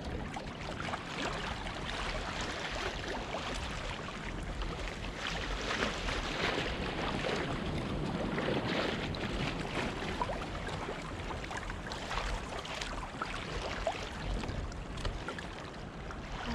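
Ocean water sloshing and splashing around a fishing kayak, with wind buffeting the microphone.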